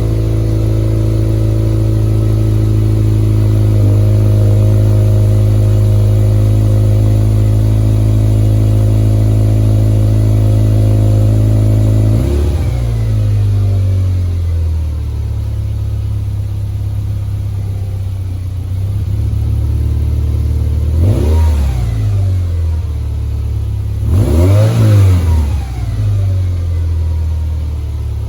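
Subaru Legacy GT's turbocharged 2.5-litre flat-four running through an aftermarket axleback exhaust with 5-inch mufflers, at a steady fast cold-start idle. About twelve seconds in the idle drops lower, and later the engine is blipped twice in short revs.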